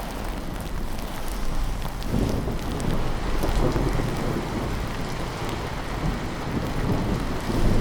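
Steady heavy rain with a low rumble of thunder that swells about two seconds in and again near the end.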